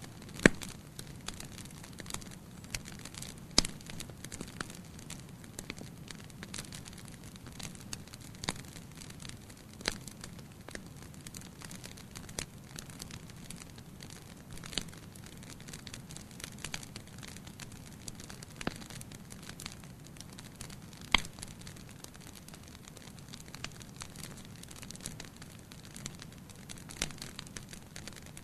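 Wood fire burning in a fireplace, crackling with irregular sharp pops over a steady low rush of flame; the loudest pops come right at the start, a few seconds in and about two-thirds of the way through.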